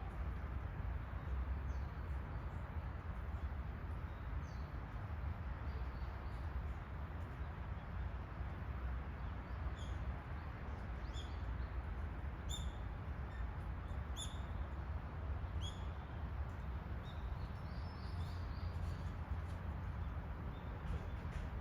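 Steady low outdoor rumble with a bird chirping briefly several times, mostly in the middle of the stretch.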